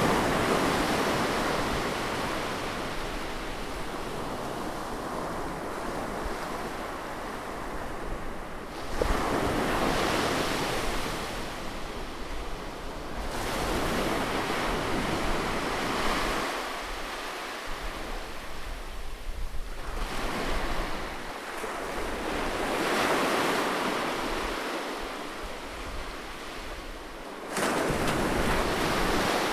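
Sea waves breaking close in on a shore, one surge every few seconds, each rising and then washing back. Two waves hit suddenly, about nine seconds in and near the end.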